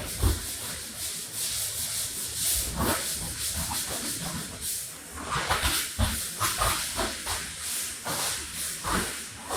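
A wet rug being washed: a steady hiss of water with irregular strokes and low thumps across the pile, busier from about halfway through.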